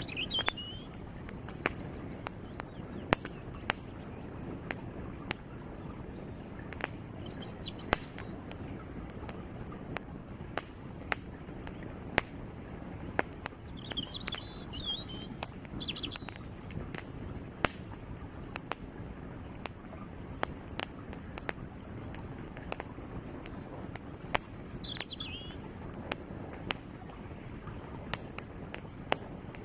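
Wood campfire crackling, with frequent irregular sharp pops of burning firewood, over the steady rush of a flowing creek. Birds chirp briefly a few times.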